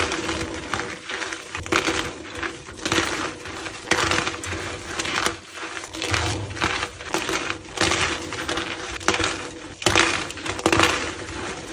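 Blocks of gym chalk being crushed and crumbled, a dense run of crisp crunches and crackles with louder surges at irregular intervals.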